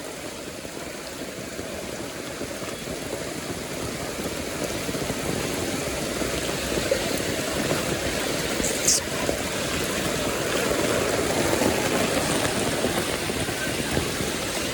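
Heavy tropical rain pouring steadily and drumming on an umbrella overhead, with runoff water rushing along the ground, growing gradually louder.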